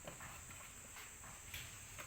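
Steady high-pitched insect drone, with a few light, irregular taps or clicks over it.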